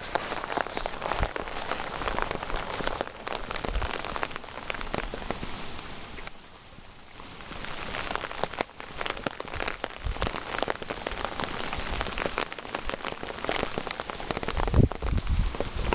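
Rain falling steadily, with many sharp individual drop hits. It eases briefly about six seconds in, and a few low thumps come near the end.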